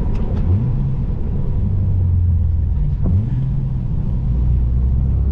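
Car engine running at low revs with a low rumble. Its pitch rises about half a second in and again about three seconds in, the second rise just after a faint click.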